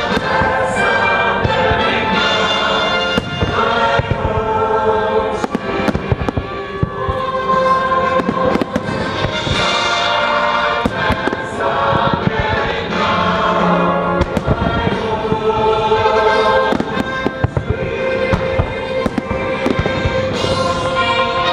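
Fireworks bursting in rapid, irregular bangs over a loud music soundtrack played for the show.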